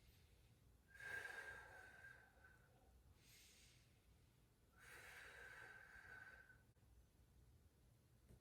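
Faint, slow deep breathing during an exercise hold: a long exhale about a second in, a short inhale, then a second long exhale, each exhale carrying a slight whistle.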